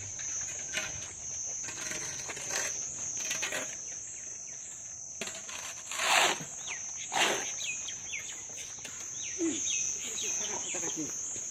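Steady high-pitched insect chirring, with two short noisy bursts about six and seven seconds in.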